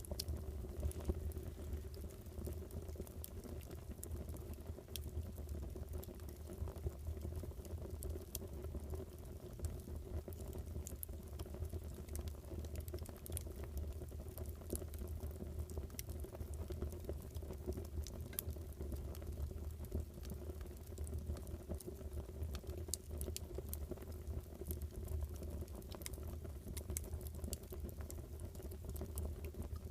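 Fire burning steadily, with frequent small crackles and pops over a low, even rumble.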